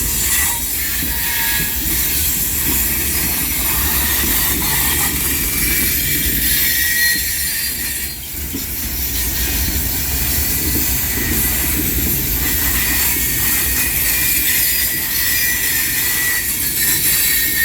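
Slow freight train of mostly empty cars rolling through a curve. The wheel flanges rub the rail with a loud, steady high squeal over a low rumble.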